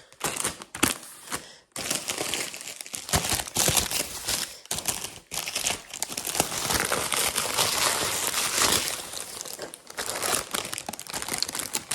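Packaging wrap crinkling and rustling as it is handled and pulled off items during an unboxing. It goes in a run of dense crackles, with a short pause just under two seconds in.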